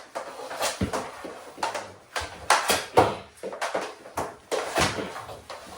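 Mini hockey sticks and ball clacking and knocking on a hard floor during play: a dozen or so irregular sharp hits, the loudest a little before the halfway point.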